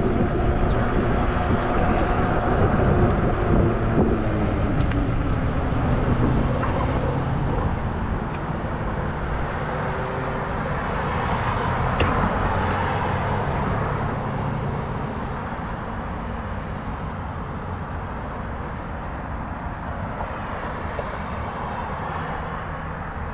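Steady wind and road noise from a moving fat-tire e-bike, with traffic. A tone slides down in pitch over the first few seconds, and the noise grows gradually quieter.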